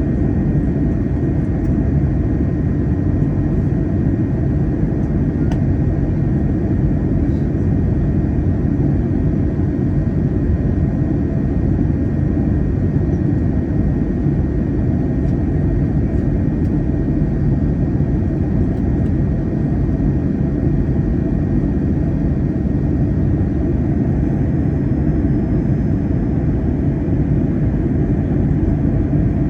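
Steady cabin noise of an Airbus A321 in flight: a constant deep rumble of engines and airflow, with a few faint steady tones above it and no change throughout.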